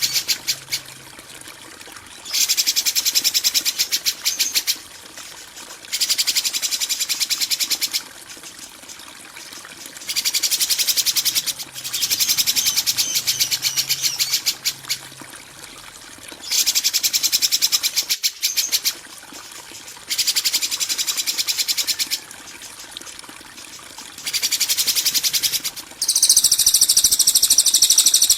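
Recorded songbird calls played as a song-tutor track. Bursts of fast, harsh rattling chatter, each about two to three seconds long, repeat with short pauses between them. Near the end comes a higher, clearer trilling phrase.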